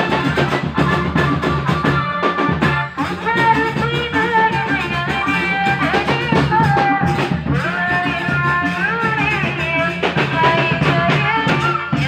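Live band music: a singer's melody over drums and guitar, with a steady beat.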